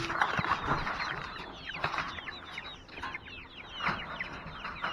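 A flock of chickens chirping and clucking: many short, falling peeps overlap continuously.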